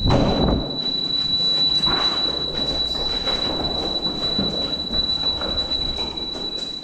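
Roof smoke vent's warning sounder giving one steady high-pitched tone while the vent is open, over a continuous rushing noise that swells at the start.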